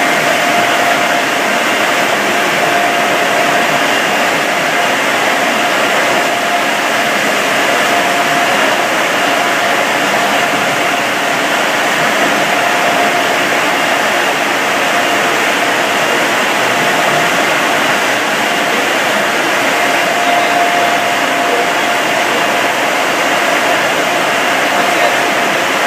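Touch-free car wash air-dryer blowers running: a loud, steady rush of air with a faint steady whine in it.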